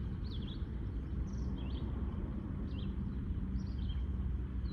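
Small birds chirping in short, quick calls, repeated several times a second apart, over a steady low rumble with a hum.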